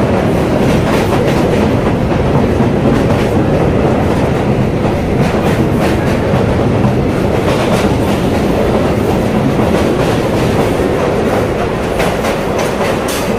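EMU electric local train running at speed over a steel truss bridge, heard from inside the coach: a steady loud rumble of wheels on rails with scattered clacks at the rail joints.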